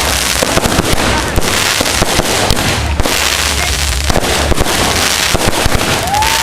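Consumer fireworks going off in a dense, continuous barrage of rapid crackling pops and bangs over a low rumble, with a short whistle near the end.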